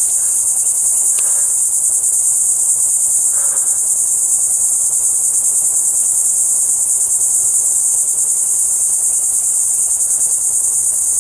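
Dense chorus of insects, a steady high-pitched drone with no break.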